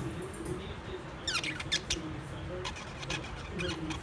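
Birds chirping: a quick burst of high chirps about a second in and another cluster around three seconds in.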